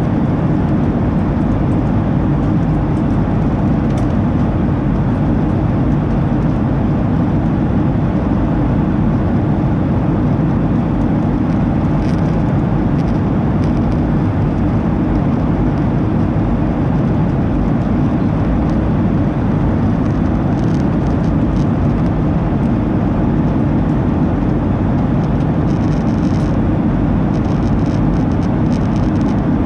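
Steady cabin roar of a Boeing 737-800 in flight: engine and airflow noise heard inside the passenger cabin at a window seat, even and unchanging, with a few faint light ticks near the end.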